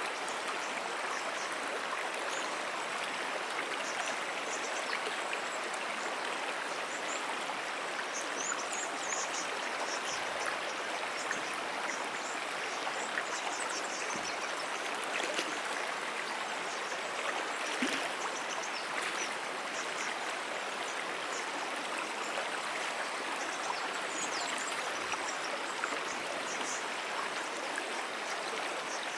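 Brook water flowing steadily, an even rushing sound with no change in level, and faint high chirps here and there above it.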